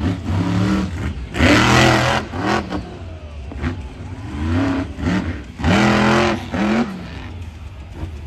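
Monster truck engine revving in repeated surges, its pitch climbing and dropping several times, with two loudest bursts about a second and a half in and again near six seconds.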